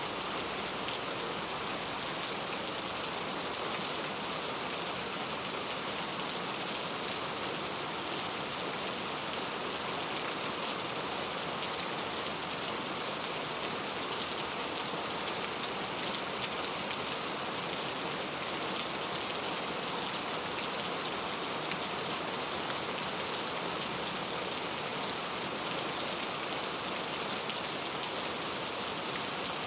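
Heavy rain falling steadily, an even hiss of many drops on surfaces.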